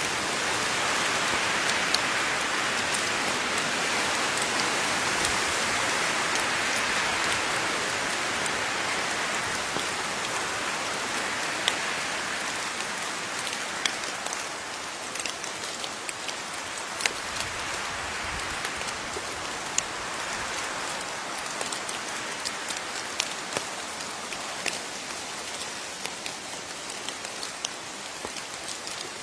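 Steady rain falling, an even hiss with many individual drops ticking sharply close by. The rain eases slightly over the half-minute.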